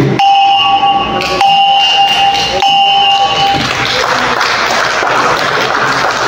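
Small brass bossed gong in a wooden stand struck three times with a mallet, about a second apart, each stroke ringing with a steady tone; applause follows.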